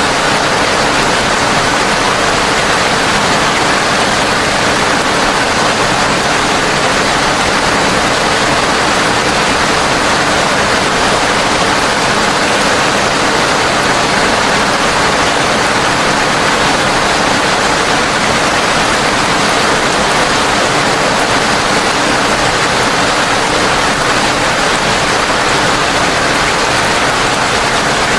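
Heavy rain falling in a steady, dense hiss that holds even throughout.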